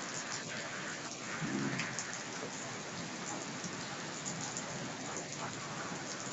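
Heavy rain falling and splashing on a wet street and pavement, a steady hiss.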